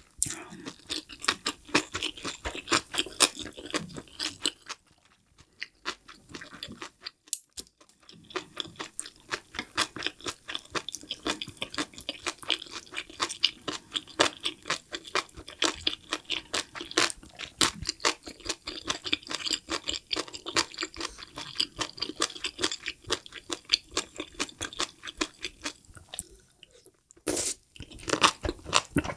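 Close-miked chewing of sauce-soaked enoki mushrooms: rapid, wet clicking and squeaking from the mouth. It pauses briefly twice, once about five seconds in and again near the end, then turns louder as a fresh mouthful goes in.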